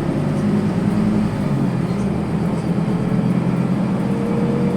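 Scania N280UB city bus's natural-gas engine running steadily under way, heard from inside the passenger cabin. A faint whine appears about four seconds in and slowly rises in pitch.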